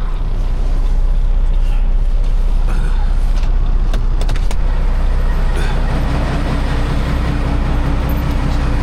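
Caterpillar C15 ACERT inline-six diesel of a Kenworth W900L running as the truck rolls slowly into a yard: a steady, loud low engine drone, with a few light clicks about three to four seconds in.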